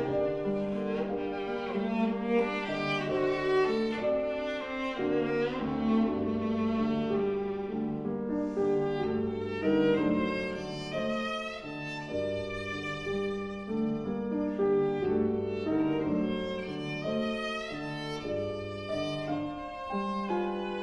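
Viola playing a bowed melody with piano accompaniment, in a live chamber music performance.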